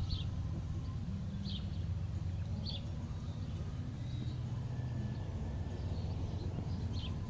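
A bird chirping repeatedly, short high calls every second or so, over a steady low hum.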